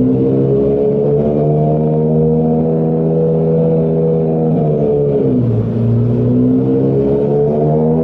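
BMW M5 E60's V10 engine pulling hard on a dynamometer, its pitch rising steadily as it revs. The pitch drops sharply about five seconds in, then climbs again.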